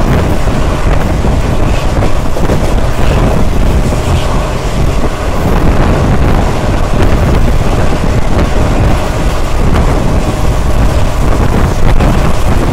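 Passenger train running at speed, heard from on board: a loud, steady rumble of wheels and coach, with heavy wind buffeting the microphone.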